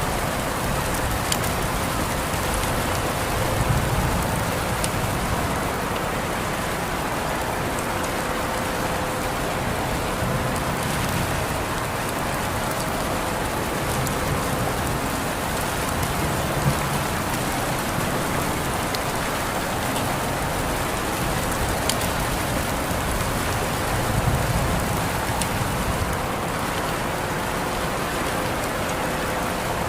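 Steady rain falling on a surface, an even hiss with single drops ticking sharply here and there. A low rumble swells and fades a few times.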